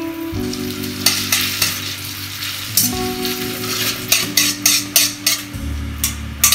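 Spaghetti sizzling in a hot, oiled wok as a splash of pasta cooking water goes in and the pasta is stirred with metal tongs. Near the end the wok is tossed on the burner, adding a quick series of scraping clinks.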